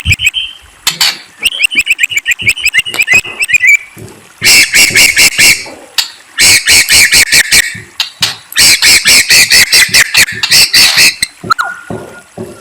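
A songbird singing close to the microphone in loud bursts of rapid, repeated sharp notes: a trill, then several fast chattering phrases each a second or more long, and a lower whistled note near the end.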